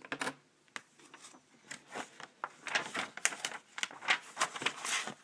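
Close handling of a book: a run of light taps, clicks and paper rustles, thickest in the second half.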